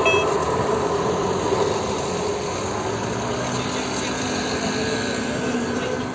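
A level-crossing warning bell rings its last tones and stops just at the start. After that comes a steady engine and rail rumble that fades slowly as the train moves away and road traffic waits at the crossing.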